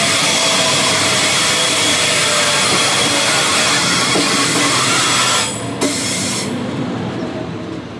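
Sydney Trains double-deck electric suburban train passing close by: a loud steady rush of wheels on rail and moving air with a thin high steady whine. About five and a half seconds in, the last car clears and the noise falls away sharply, with a single click just after.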